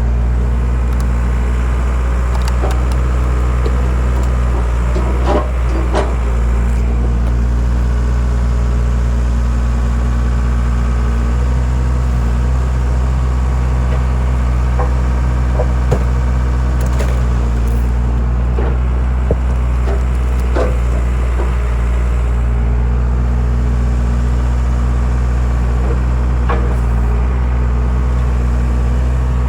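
Skid steer engine running steadily as it powers a hydraulic wood splitter, with scattered sharp cracks and creaks of wood splitting.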